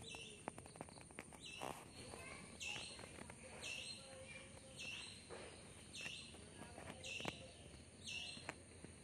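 A bird chirping faintly, one short call about once a second, with scattered faint clicks.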